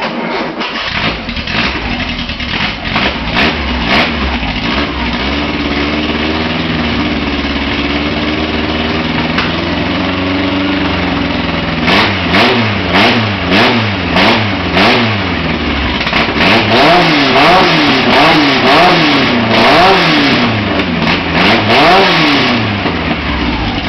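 2276 cc air-cooled Volkswagen flat-four with dual carburettors running on an engine stand with an open exhaust, its throttle worked by hand. For the first ten seconds or so it revs gently up and down, then it takes quick throttle blips about once a second, each rev rising and dropping straight back.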